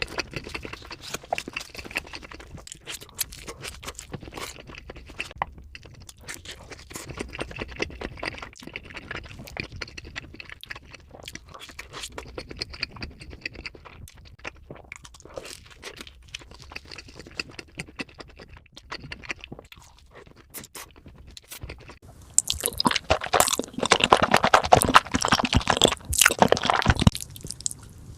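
Close-miked chewing of pizza, a steady run of small wet crunches and clicks. About 22 seconds in, a louder, denser stretch of crunchy biting lasts several seconds, then drops back.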